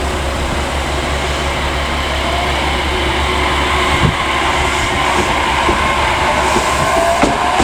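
Train running past at a station with a steady rumble. From about halfway a faint whine rises in pitch, and there are a couple of sharp wheel clicks.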